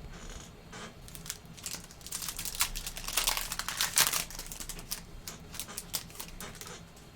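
Crinkling and tearing of a foil trading-card pack wrapper being opened and handled: a run of quick crackles that grows busier about two seconds in and thins out near the end.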